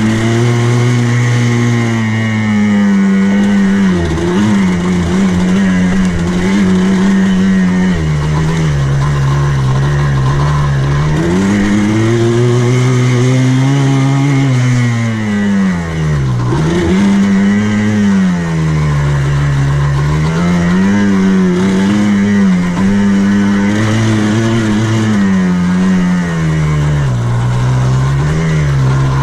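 Buggy engine running under load as it is driven around a dirt course, its pitch rising and falling over and over as the throttle is opened and eased off.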